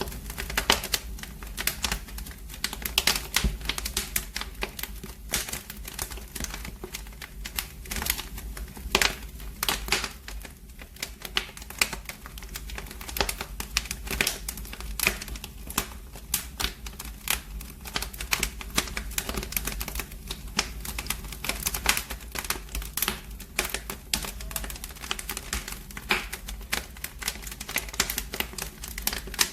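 Wood fire in a fireplace crackling, with dense, irregular pops and snaps over a low, steady rumble.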